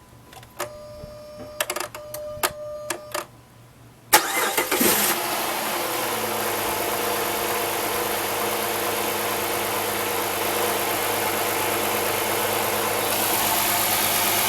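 The 2005 Dodge Magnum SXT's new replacement 3.5-litre V6 starts: a few short electronic tones, then about four seconds in the starter cranks briefly, the engine catches and it settles into a steady idle.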